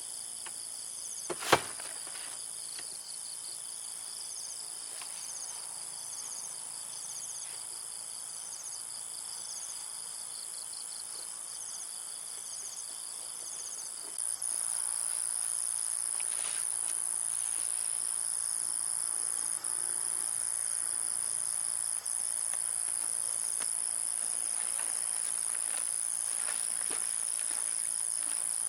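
Insects chirping in a steady high-pitched chorus, with a pulsing chirp repeating about once a second early on; the chorus gets a little louder about halfway through. One sharp click sounds about a second and a half in.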